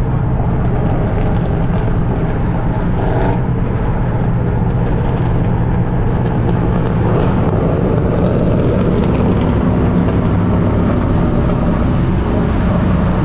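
A motor vehicle's engine running steadily under road noise, a continuous low hum with no breaks.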